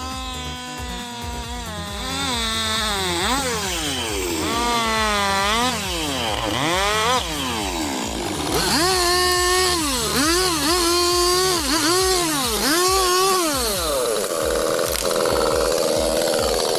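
Chainsaw engine revving up and down again and again, its pitch rising, holding and falling several times in the second half.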